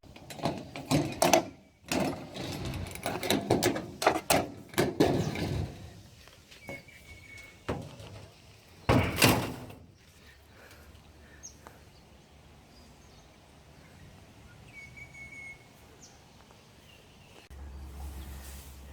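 A run of clattering knocks and thuds, then a single heavy thump about nine seconds in, followed by quiet outdoor background with a few short bird chirps.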